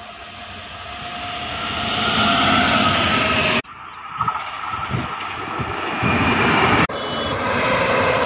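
Electric-locomotive-hauled express trains approaching and passing on the track: the rumble of the locomotive and its wheels on the rails, growing steadily louder in the first stretch. The sound cuts abruptly twice, about a third and about four-fifths of the way through, as separate train clips are spliced together.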